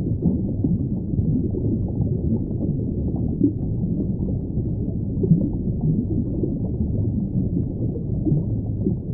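A steady, muffled low rumble with faint irregular gurgling, all deep in pitch with nothing high.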